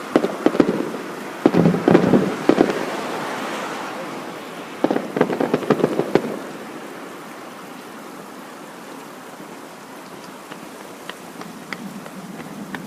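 Aerial fireworks bursting and crackling in three quick clusters of pops. After about six seconds the crackle thins to a faint hiss with scattered single pops.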